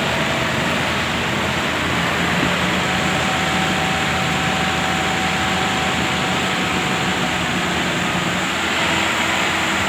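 Tractor engine running steadily, a dense even noise.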